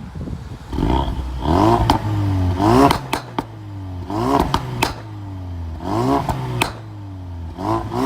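Ford Focus RS exhaust as the engine is blipped about six or seven times, each rev rising quickly and then falling away. Sharp pops and crackles sound as the revs drop.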